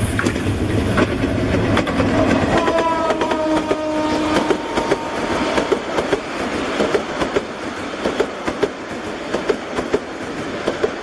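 Diesel locomotive and passenger coaches passing close by, with a horn blast of about two seconds around three seconds in. After the horn, the coach wheels give a steady clickety-clack over the rail joints, about two clicks a second.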